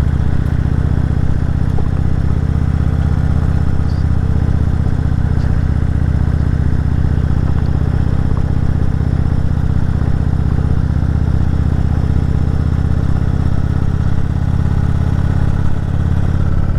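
Cruiser motorcycle engine running at a steady engine speed under the rider.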